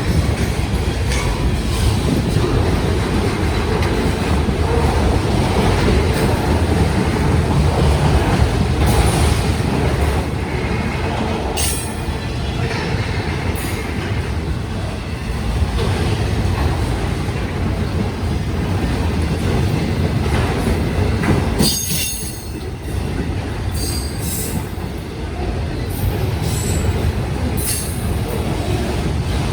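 Union Pacific autorack freight cars rolling past: a steady rumble of steel wheels on the rails, with short high wheel squeals now and then.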